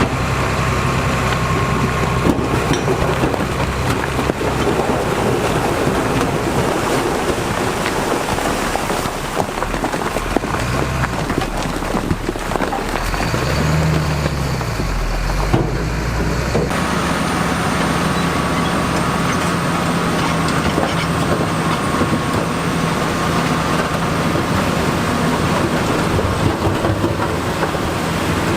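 Diesel engines of heavy earthmoving machinery working, running steadily with the revs rising and falling near the middle. The sound changes abruptly a little past halfway.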